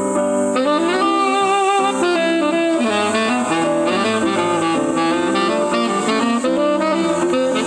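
Live jazz band playing, with a saxophone-like lead horn taking up the melody with vibrato about half a second in over the band's sustained chords.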